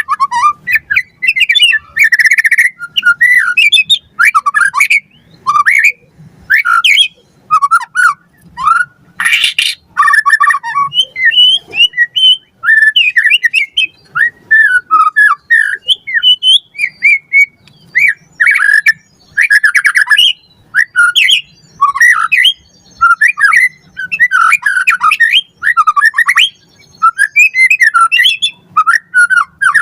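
White-rumped shama singing continuously in rapid, varied phrases of whistled notes mixed with harsh notes, with brief pauses between phrases.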